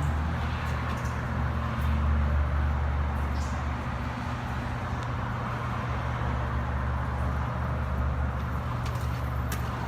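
Car engine running steadily at low revs, a continuous low hum.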